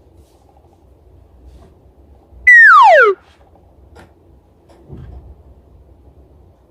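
A single loud whistle-like tone sliding down in pitch over about half a second, about two and a half seconds in, like a slide-whistle falling sound effect. Otherwise only faint background.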